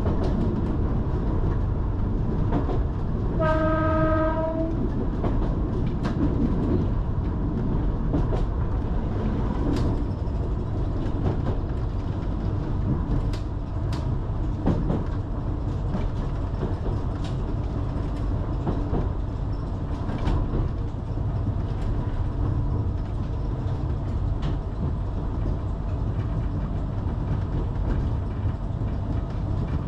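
Island Line Class 484 electric train running with a steady rumble and scattered clicks of its wheels over rail joints. About three and a half seconds in, its horn sounds once, a single held tone for about a second.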